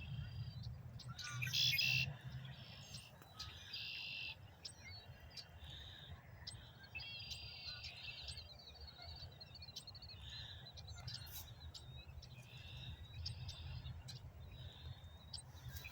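Birds singing: short high phrases and trills repeated every second or two, over a low steady rumble.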